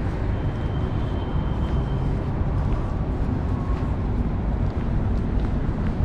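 Wind buffeting the microphone in a steady low rumble, mixed with city street traffic noise.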